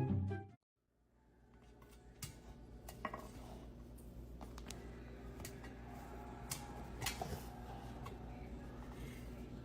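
Background music stops abruptly. After a moment of silence come faint, scattered light clicks and clinks over a steady low hum.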